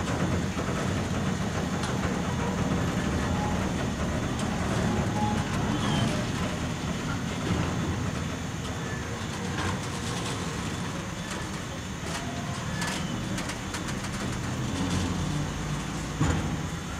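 Container flatcars of a freight train rolling slowly past: a steady rumble of wheels on rail, with scattered clicks and clanks from wheels and couplings.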